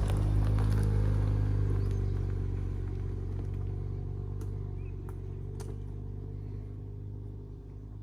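Car engine running steadily with a low hum, coming in suddenly and slowly fading over the following seconds, with a couple of light clicks about midway.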